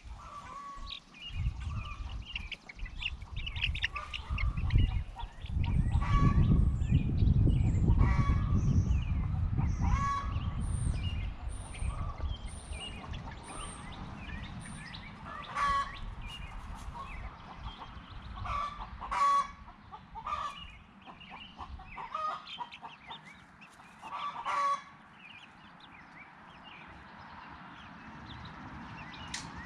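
Backyard poultry calling: many short, repeated calls, with a run of high thin peeps partway through. A loud low rumble runs under the calls for several seconds near the start.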